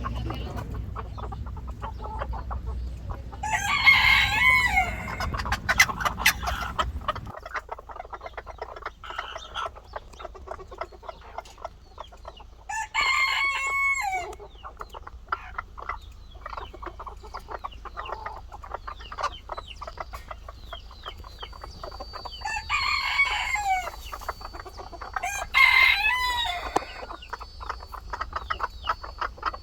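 A rooster crowing four times, each crow about a second and a half long, with chickens clucking in between.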